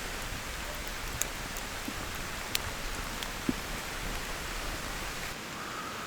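Steady rain falling, with a few heavier drops ticking sharply here and there.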